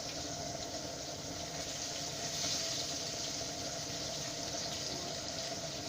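Crucian carp frying in oil in a pan over a gas burner, a steady sizzle with no break.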